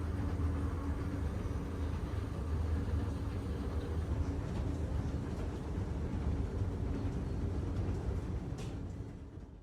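A moving vehicle, most likely a train, running with a steady low rumble and hum. It fades out near the end.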